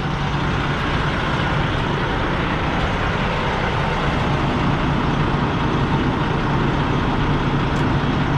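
Semi-truck's diesel engine running steadily, a constant low hum under an even mechanical noise that builds slightly in the first second.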